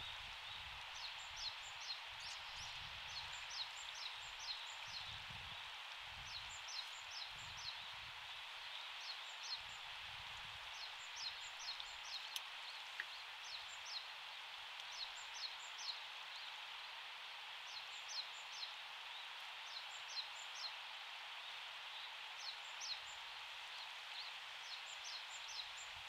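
A small bird giving short, thin, high calls in quick runs of three to five notes, each note sliding down, repeated every second or two over a steady outdoor hiss.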